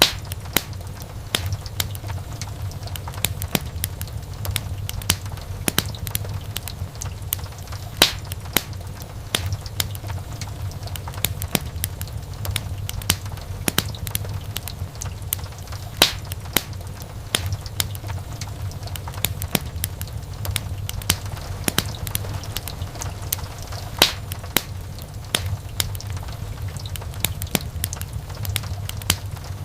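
Wood fire in a fireplace crackling, with frequent sharp pops and snaps over a steady low rumble; a few louder pops stand out, about every eight seconds.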